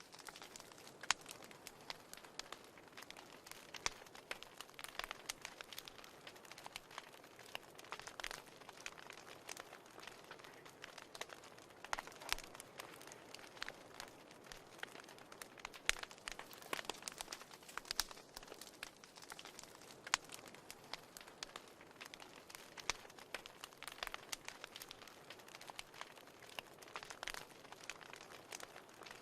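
Wood fire burning in a fireplace: irregular crackles and sharp pops, several every second, over a soft steady hiss.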